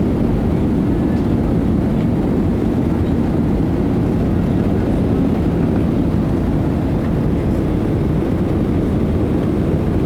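Steady low rumble of a Boeing 737-800 in flight, from its engines and the airflow around it, holding an even level throughout.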